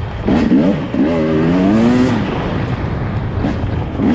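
Dirt bike engine revving up and down under throttle, its pitch wavering, in a spell from just after the start to about two seconds in and again near the end.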